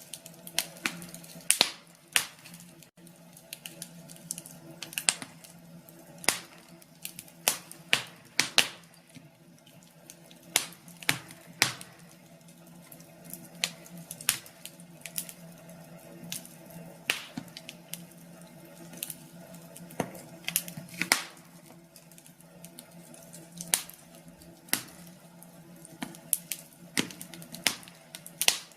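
Wood fire crackling: burning logs giving off irregular sharp pops and snaps, one to three every second or two, with a faint steady low hum underneath.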